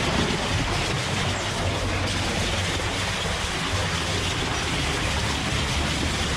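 Heavy machinery running steadily: a continuous low rumble with a hiss over it, unchanging throughout.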